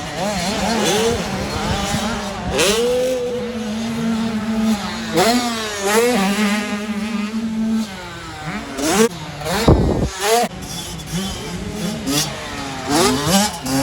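Several motocross bikes racing, their engines revving up and dropping back as they shift and work around the track, several pitches overlapping. A brief heavy low rumble comes about ten seconds in.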